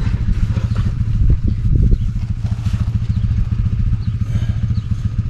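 An engine running steadily, its rapid low firing pulses even and unchanging.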